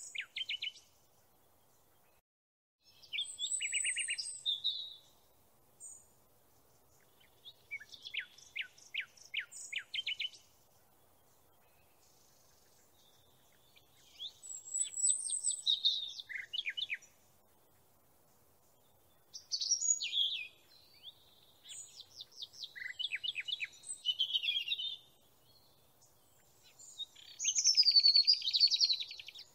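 A songbird singing in short phrases of quick, high chirps and trills, with pauses of a few seconds between them. The fastest trill comes near the end.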